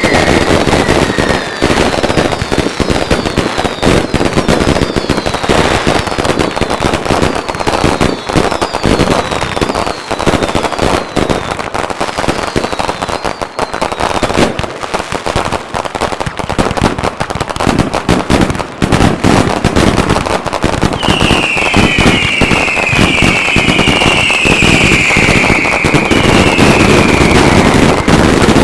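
Consumer and display fireworks going off continuously in a dense barrage of rapid bangs and crackling. Repeated falling whistles run through the first half, and a cluster of whistles comes again near the end.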